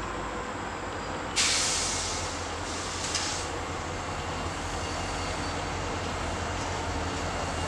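Train rumbling steadily and low. About a second and a half in, a sudden loud hiss that fades, with a weaker one shortly after.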